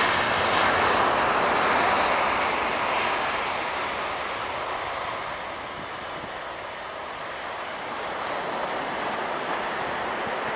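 Surf washing on a beach with wind buffeting the microphone: a steady rushing noise that eases off around the middle and swells again near the end.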